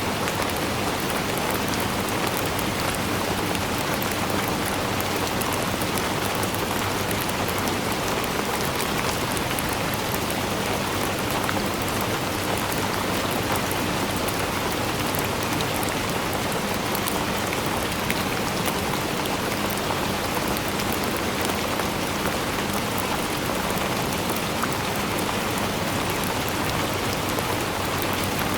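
Steady rainfall: a dense, even hiss of many small drops pattering on a surface, with no change in strength.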